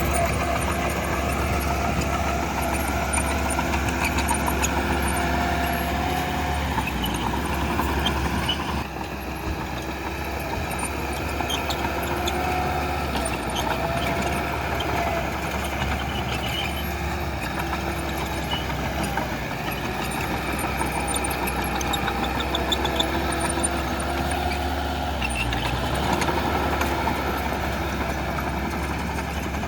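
Diesel engine of heavy earthmoving machinery running steadily, with short squeaking tones over it. The sound drops slightly about nine seconds in.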